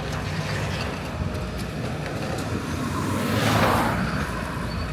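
Vehicle traffic: a steady low engine rumble, with a vehicle passing by and swelling loudest about three and a half seconds in.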